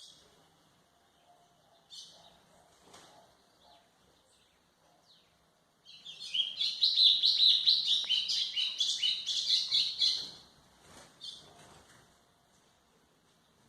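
White-throated seedeater (golinha) singing: a few short chirps, then a fast phrase of rapid twittering notes lasting about four seconds, followed by a couple of brief notes.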